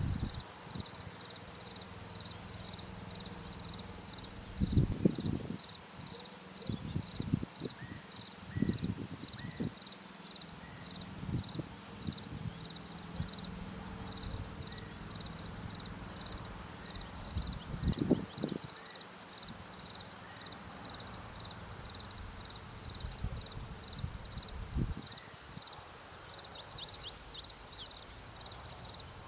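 A steady, high-pitched chorus of insects chirping in rapid pulses, with occasional low thumps.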